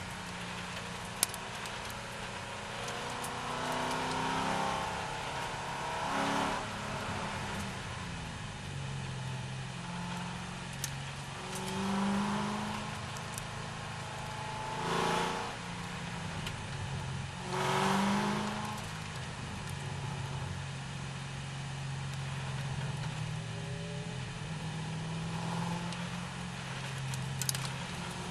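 C6 Corvette's V8 engine running under racing load, its pitch rising and falling with throttle and gear changes, with a few brief louder rushes of noise.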